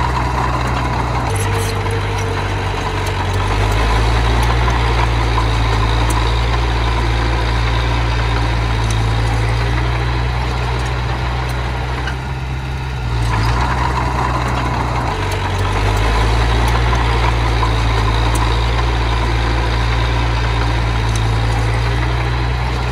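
Diesel engine of small earthmoving machinery running steadily, its note shifting a little over a second in and again about halfway through.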